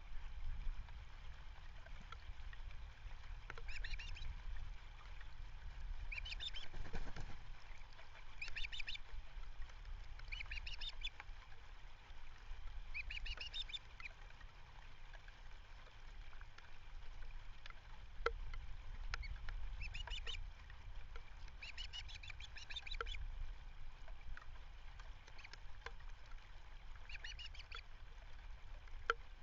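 Ospreys calling: about eight short bouts of rapid, high-pitched chirping a few seconds apart, over a low rumble of wind on the microphone.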